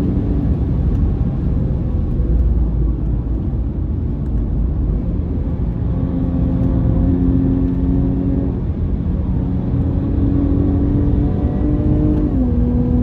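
Jaguar XE S's supercharged 3.0-litre V6 heard from inside the cabin at track speed, over a heavy road and tyre rumble. The engine note fades for the first few seconds, comes back about six seconds in and holds steady, then drops a step in pitch near the end.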